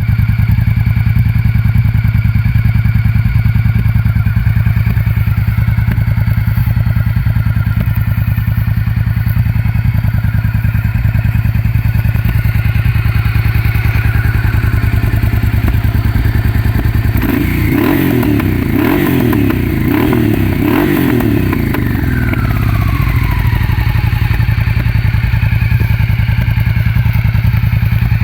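1991 Honda XRV750 Africa Twin's V-twin engine idling steadily through its exhaust. About two-thirds of the way through it is revved in a few quick throttle blips, then the revs fall away and it settles back to idle.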